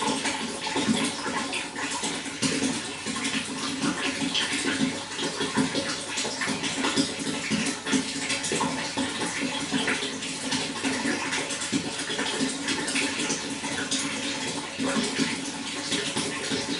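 Running water flowing and splashing steadily, with a dense, bubbling rush.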